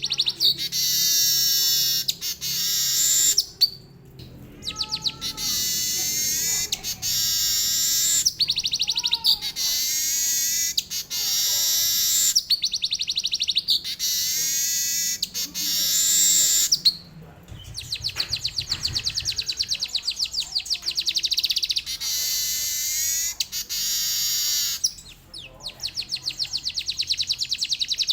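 Manyar (weaver bird) singing long phrases of very rapid rolling trills in canary-like song. Short breaks come about 4 seconds, 17 seconds and 25 seconds in.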